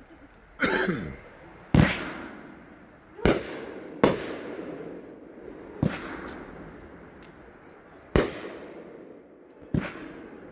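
Aerial consumer firework 'Absolute Power' firing: about six sharp booms at uneven intervals, each trailing off in an echo.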